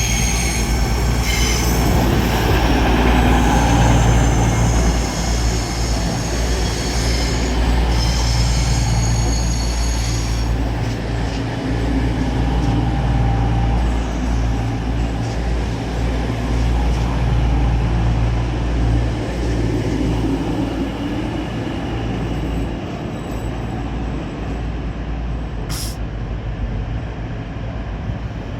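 EMR Class 222 Meridian diesel multiple unit pulling into the platform: its underfloor Cummins diesel engines give a steady low drone, with high-pitched brake and wheel squeal over roughly the first ten seconds. The sound eases off a little in the last third as the train comes to a stand.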